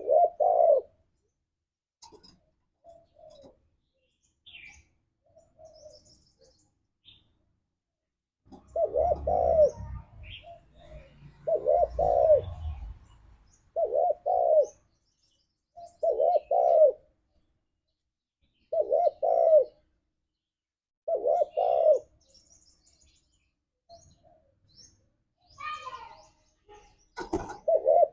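Spotted dove cooing: its call phrase repeated about every two to three seconds, softer at first and loud from about a third of the way in. Faint short high chirps from other small birds sound in the gaps, and a low rumble runs under two of the calls.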